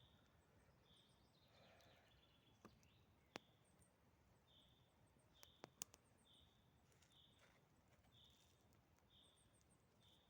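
Faint forest ambience: a bird repeats a short, high call note over and over, with fainter high chirps above it. A few sharp clicks come about a third of the way in and again just past halfway.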